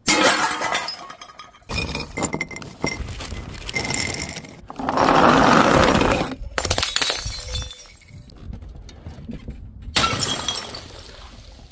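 Glass bottles shattering, about five separate breaks, each trailing off into tinkling, clinking shards. The loudest and longest break comes about five seconds in.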